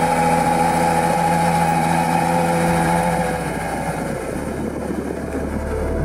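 Ferrari 812 Superfast's naturally aspirated V12 engine running steadily.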